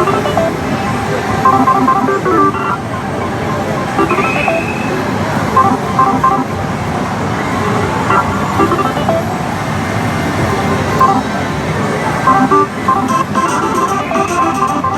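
The steady din of a pachislot parlor, with short clusters of electronic beeps and jingles from the slot machines recurring every second or two.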